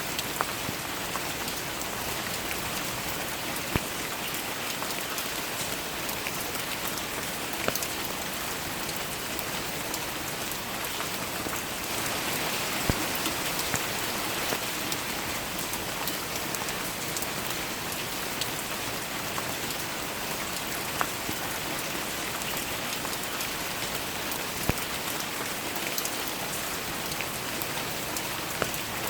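Steady rain falling, an even hiss with scattered sharp drips of single drops standing out. The rain swells slightly a little under halfway through.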